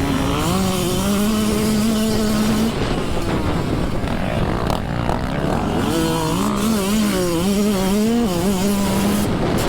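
Dirt bike engine running under a rider on the track. Its pitch holds steady for about two seconds, drops away, then swings up and down over the last few seconds as the throttle is worked, over a steady rush of noise.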